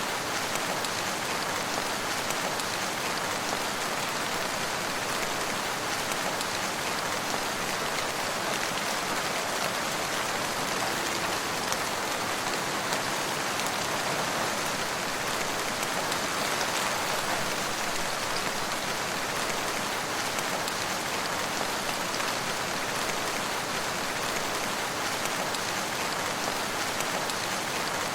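Steady rain falling and pattering on surfaces, an even hiss with no change in intensity.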